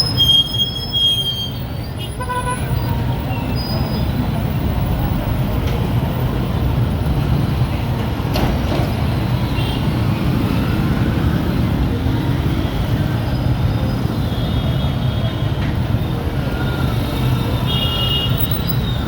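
Busy street traffic with motorcycle taxi engines and other vehicles running steadily, and short horn toots in the first couple of seconds and again near the end.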